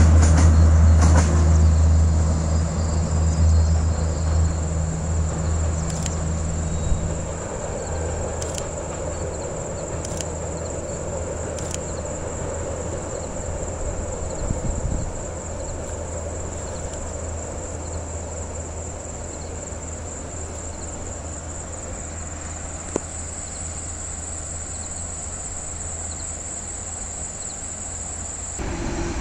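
A train's low rumble in the valley, fading away over the first several seconds and then lingering faintly, under a steady high-pitched drone of insects.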